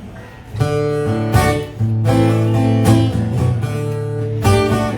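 Acoustic guitar strummed in chords, playing a song's intro. The strumming starts about half a second in.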